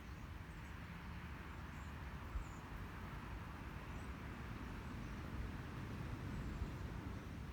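Steady outdoor background rush with a low rumble, and a few faint, brief high bird chirps scattered through it.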